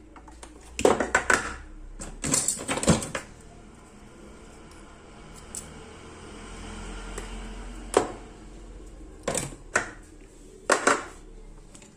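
Clicks, knocks and clatter of hard parts being handled while the amplifier board is taken out of a powered bookshelf speaker, in several short bursts with pauses between.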